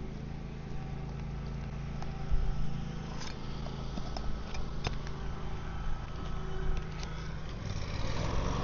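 A steady low engine-like hum, with scattered light clicks and taps and one louder knock about two seconds in.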